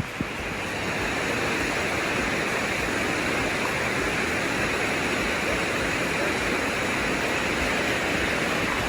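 Dunn's River Falls' water rushing and cascading over rock close by, a dense steady roar that swells about a second in and then holds.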